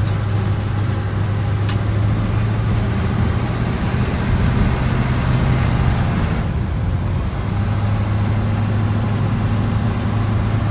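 1955 Chevrolet 3200 pickup truck on the move, its engine rebuilt less than 300 miles ago, running with a steady low note under road and wind noise. There is a single sharp click a little under two seconds in. About six and a half seconds in, the engine note and road noise ease briefly, then the engine note picks back up.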